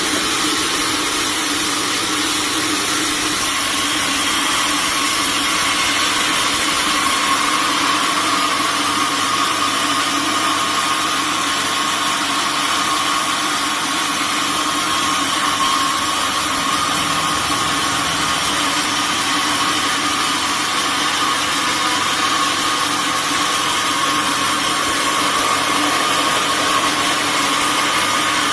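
Sawmill machinery running steadily: a continuous mechanical drone with a steady high whine and no pauses.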